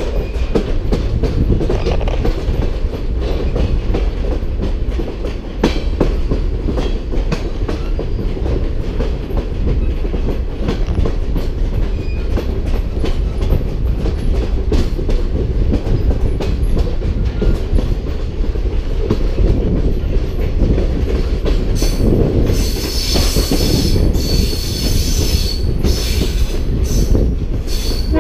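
Passenger train rolling along the track: a steady rumble with the clickety-clack of wheels over rail joints. From about three-quarters of the way through, the wheels squeal high for several seconds.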